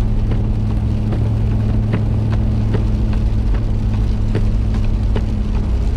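Car driving, heard from inside the cabin: a steady low hum and rumble, with scattered light ticks.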